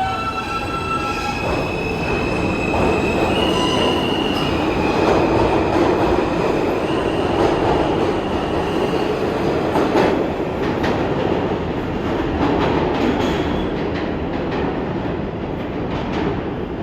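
New York City subway train running on the track. Thin, high wheel squeal is heard over the rumble in the first several seconds, and sharp clicks over the rail joints come from about ten seconds in.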